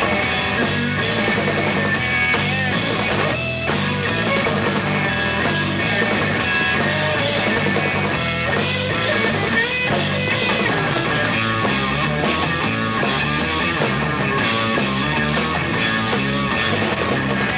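Rock band playing an instrumental passage: electric guitar, bass and drum kit with a steady beat and no singing.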